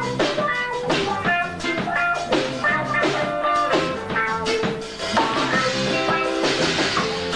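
Live rock band playing an instrumental passage: guitars, bass and drum kit, with cymbals washing over the band about five seconds in.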